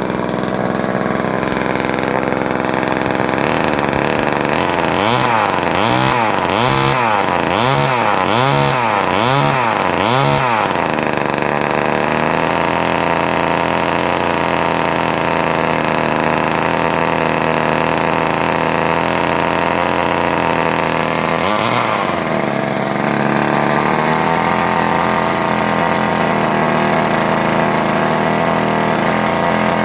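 1977 Poulan Micro two-stroke chainsaw engine running. From about four seconds in, its speed swings high and low about once a second, seven times, then it settles into a steady run with one brief dip near the three-quarter mark; the owner takes the high-low running as a sign the carburettor needs adjusting.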